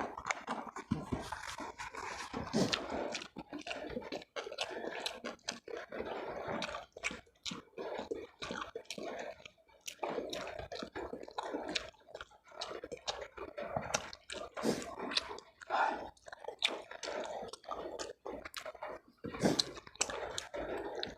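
A person chewing and biting food, with many quick crunches one after another.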